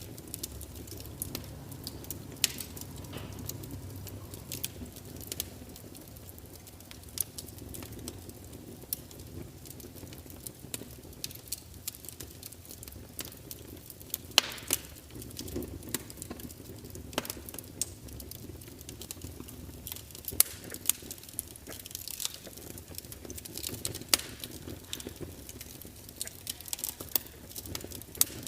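Wood logs burning in an open fire, crackling with irregular sharp pops over a low steady rumble of the flames; a few pops stand out louder.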